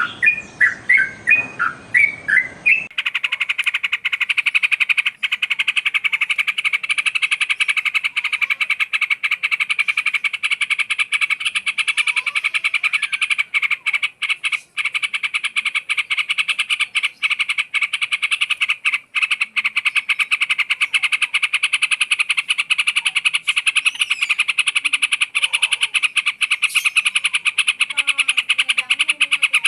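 A yellow-vented bulbul (trucukan) sings short whistled phrases that bend in pitch. About three seconds in, this gives way abruptly to a loud, continuous, very rapid pulsing trill that fills the rest of the time.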